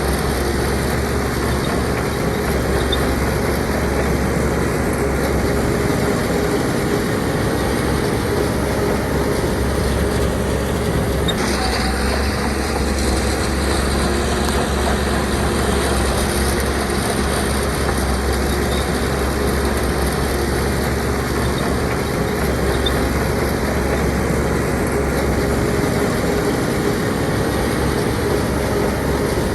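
Shantui DH17C2 bulldozer's diesel engine running steadily under load with a deep rumble; the sound shifts slightly about eleven seconds in.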